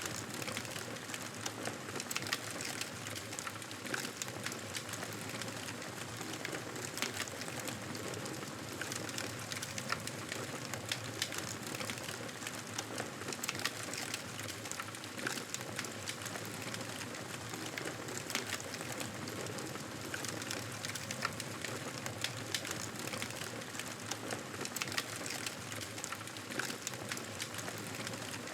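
Wood fire crackling in a fireplace: a steady hiss with many small pops and snaps all through.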